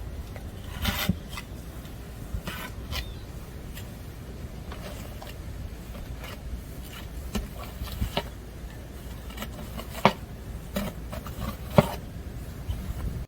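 Snow being scraped and crunched in scattered short strokes, with two sharper ones about ten and twelve seconds in.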